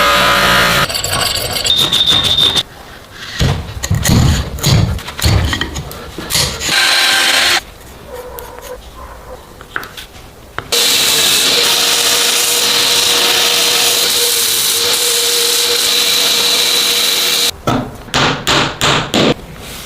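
Workshop metalworking sounds in quick succession: a power tool runs steadily for several seconds with a faint whine, between bursts of sharp strikes and, near the end, about six quick strokes.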